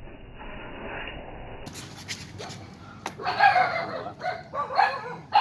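A dog barking repeatedly: a run of short barks about half a second apart, starting about three seconds in.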